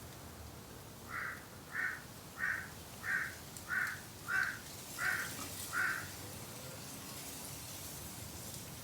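A bird calling eight times in an even series, about one call every two-thirds of a second, then stopping about six seconds in.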